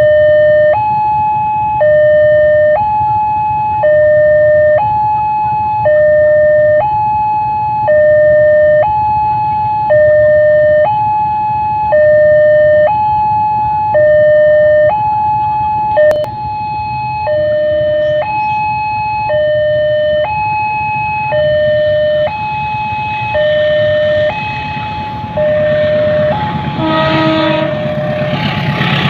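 Railway level-crossing warning alarm sounding, an electronic two-tone signal switching between a high and a low note about every second. An approaching train's rumble rises under it in the last several seconds and grows loud near the end.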